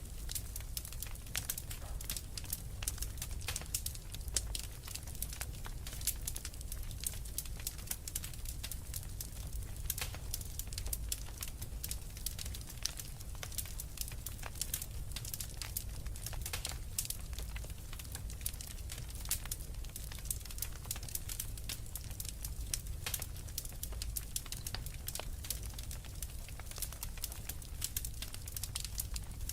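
Wood fire crackling in a fireplace: many small, irregular pops and snaps, over a steady low rumble.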